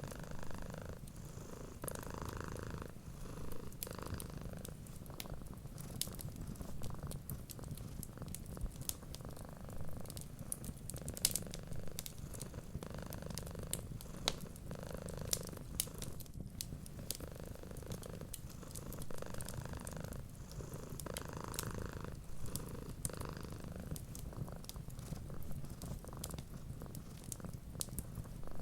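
Domestic cat purring steadily in a low, continuous rumble, with many small sharp crackles and pops from a wood fire.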